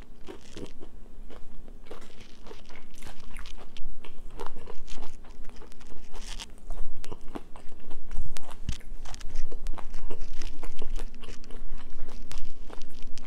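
A person chewing crunchy fried chicken gizzards, a quick, dense run of crisp crunches and bites that keeps going without a break.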